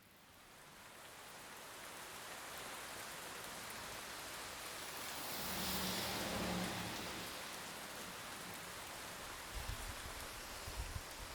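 Steady rain falling: an even hiss that fades in at the start and swells for a moment about six seconds in.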